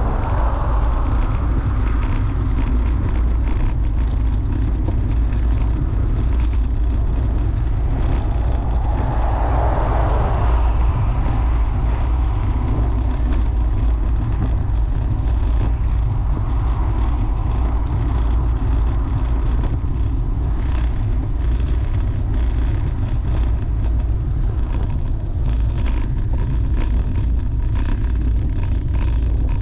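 Steady low rumble of wind buffeting the microphone of a camera on a moving road bicycle, with a brief swell of rushing noise about ten seconds in.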